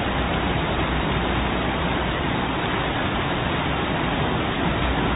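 Steady, even rushing of a fast-flowing river in flood.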